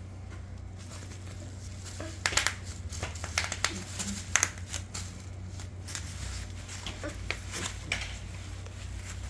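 Bubble wrap crinkling and popping as a dog wrestles with it: an irregular run of sharp pops and crackles starting about two seconds in, busiest in the middle and thinning out near the end.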